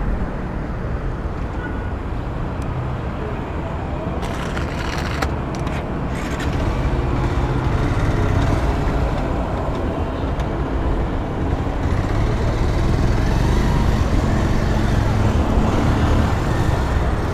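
Vehicle engine running with road noise while driving, a steady low rumble that grows a little louder in the second half, with a few brief clicks about four to six seconds in.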